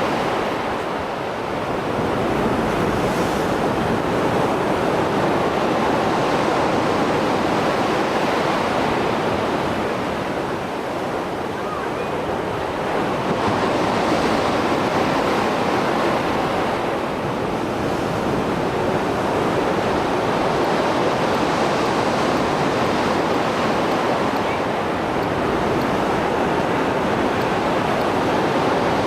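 Mediterranean Sea waves breaking on the shore as a steady, loud wash of surf that swells and eases every several seconds, the heavy swell left after a storm.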